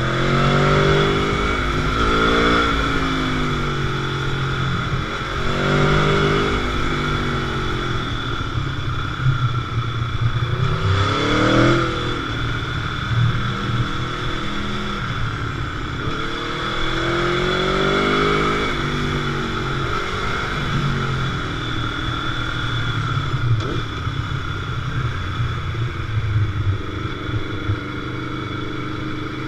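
Sport motorcycle engine pulling hard and easing off again and again, its pitch climbing in repeated sweeps as it accelerates through the gears.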